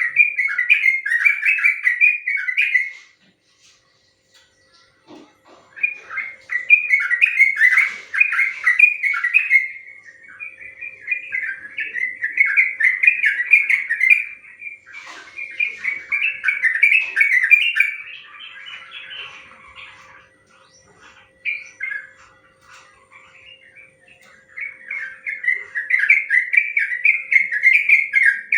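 Sooty-headed bulbul (trucuk) singing long, rapid, rolling phrases of bright warbling notes. The phrases run several seconds each, with short pauses between them.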